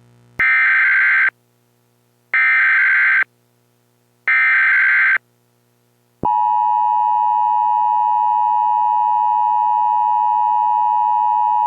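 NOAA Weather Radio emergency alert: three short bursts of warbling SAME digital header data, about two seconds apart, followed by the steady 1050 Hz warning alarm tone that announces a severe weather warning.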